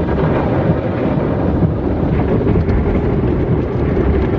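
Automatic car wash running over the car, heard from inside the cabin as a steady, loud rush of noise.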